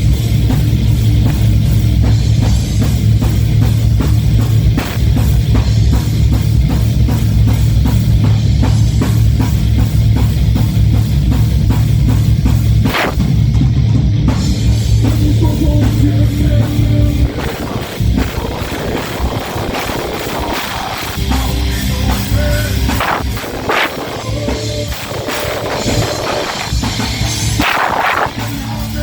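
Heavy metal band playing live, with a fast, driving drum kit and guitars. About two-thirds of the way through, the dense full-band section drops to a sparser, quieter passage.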